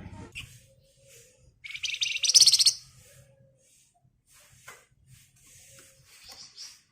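Flamboyan (wergan Jawa, Javan fulvetta) singing: a loud, rapid, buzzy trill lasting about a second, starting about a second and a half in, with scattered soft chirps around it.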